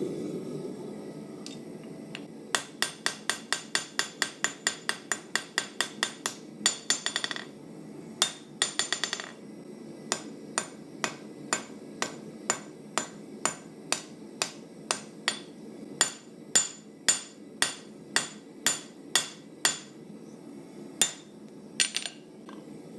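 Hammer blows on hot steel against an anvil, each strike ringing bright: forging a 1084 carbon-steel knife blank to isolate the tang. About three blows a second at first, two quick clusters of bouncing strikes about a third of the way in, then a slower beat of about two a second, with the last couple of blows spaced out near the end. A steady low rumble runs underneath.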